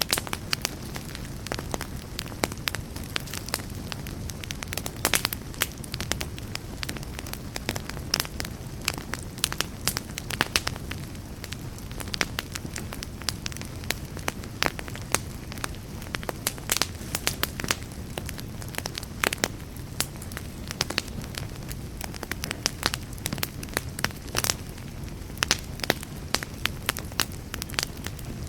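Wood fire burning in a fireplace: a steady low rumble with frequent irregular sharp crackles and pops from the burning logs.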